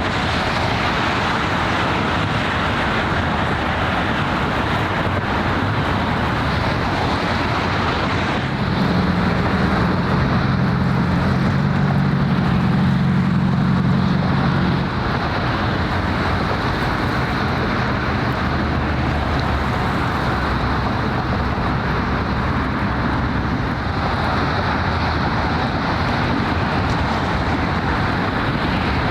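Steady roar of road traffic and wind by the harbour. About nine seconds in, a low droning tone made of several pitches comes in, holds for about six seconds and stops.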